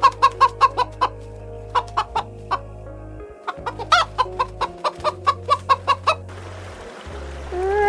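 Chicken clucking in quick runs of short clucks, about five a second, in three groups with brief pauses, over steady low background music. Near the end a drawn-out call that rises then falls begins.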